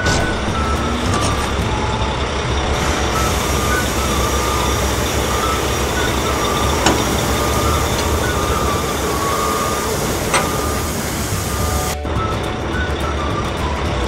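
Sound effects for an animated dump truck: a steady truck engine noise with short high beeps over it, and two sharp clicks about seven and ten seconds in, while the truck tips its load.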